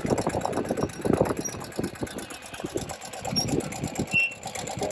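Ural sidecar motorcycle's flat-twin engine running with a fast, even pulsing.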